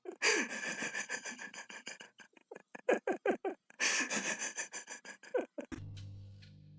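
A pet animal making a rapid series of short, sharp squeaky calls, several a second. Music starts near the end.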